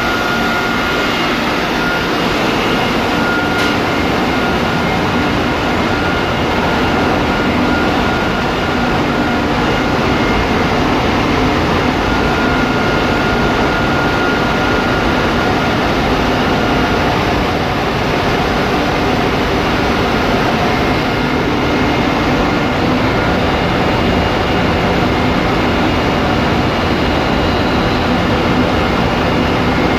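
Ship's engine-room machinery running: a loud, steady din with a few thin, steady whining tones over it.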